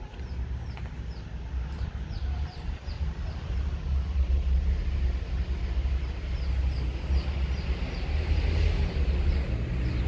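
Steady low outdoor rumble with a small bird chirping over it, a long run of short high chirps at two or three a second.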